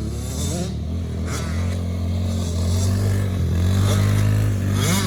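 Small youth off-road engine running and revving up and down, rising in pitch several times, with short bursts of hiss.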